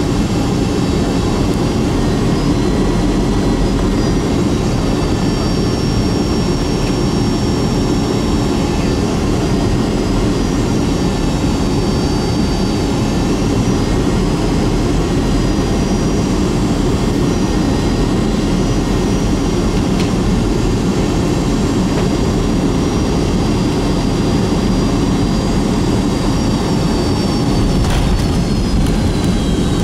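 Rolls-Royce RB211 jet engines of a Boeing 757-200, heard from inside the cabin: a steady loud rumble of engine and airflow with several high whining fan tones that drift slowly in pitch. A brief sharp knock comes near the end, as the whining tones slide lower.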